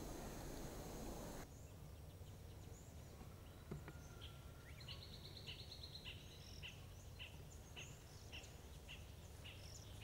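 Faint outdoor ambience of birds calling: a louder background hiss drops away about a second and a half in, then a short high call repeats just under twice a second, with a brief rapid trill near the middle and a few higher chirps.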